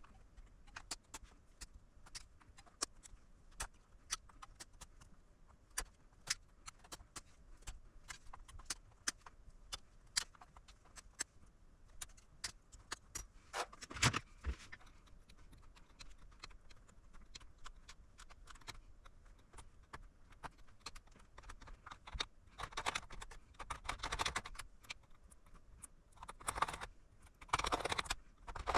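Irregular sharp clicks and light clatter of small hard objects being handled, often several a second, with a louder knock about halfway through and a few brief rustling noises near the end.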